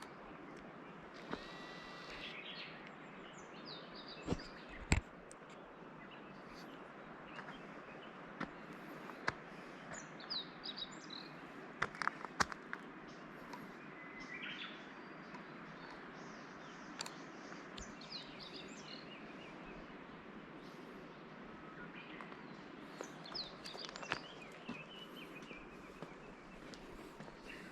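Songbirds singing: short whistled phrases and chirps scattered throughout, over a steady background hiss. A few sharp clicks or knocks come about five and twelve seconds in.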